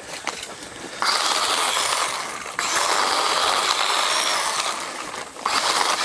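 Power saw cutting brush and vines, running in bursts that start and stop abruptly: it starts about a second in, with brief breaks near the middle and near the end.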